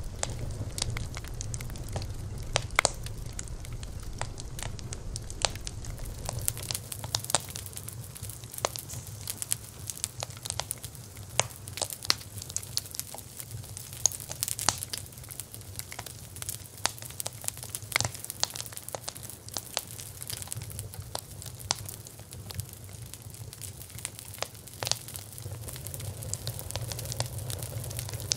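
Wood bonfire crackling, with irregular sharp pops and snaps over a steady low rumble of the burning fire.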